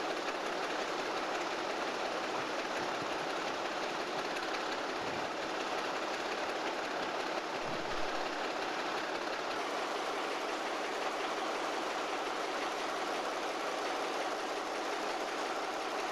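A train moving on the tracks, a steady, even running noise with no pauses or breaks.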